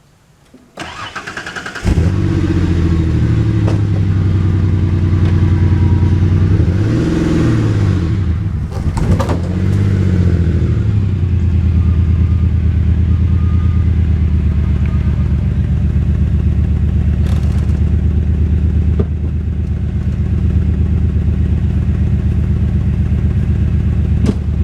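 A vehicle engine cranks and starts, revs up and back down twice, then settles into a steady idle.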